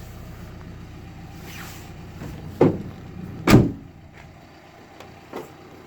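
The rear split slab doors of a Nissan NV200 van being shut one after the other: two solid slams a little under a second apart, the second the louder. A low steady hum is under the first half and is quieter after the slams.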